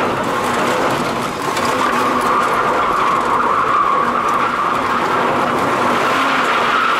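BMW drift car's engine held at steady high revs, heard from inside the stripped cabin, with the rear tyres spinning on loose sandy ground. The level dips briefly about a second and a half in.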